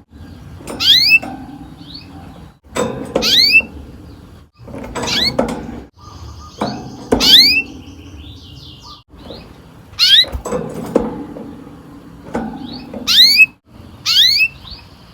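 Canary calling: short, sharp upward-sweeping chirps repeated about every two seconds, each with a rougher lower sound beneath.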